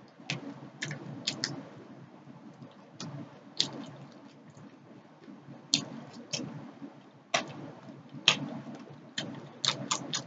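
Close-up mouth sounds of eating fried fish: soft chewing with irregular sharp wet clicks and lip smacks, about a dozen, some louder than others.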